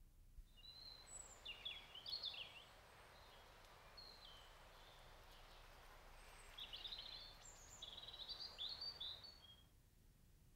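Faint birdsong over a soft hiss of outdoor ambience, fading in at the start and out near the end: short runs of quick, high chirps, clustered around one to three seconds in and again from about six to nine seconds.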